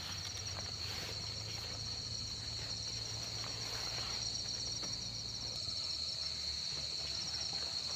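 Field crickets calling at night: one steady high-pitched trill with a second cricket's faster-pulsed chirping just above it, both running without a break.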